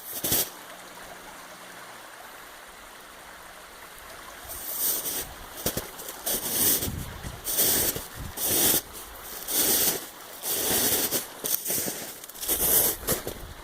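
Flooded creek rushing in a steady roar of water. From about four seconds in it is broken by loud, irregular whooshing surges, each lasting around a second.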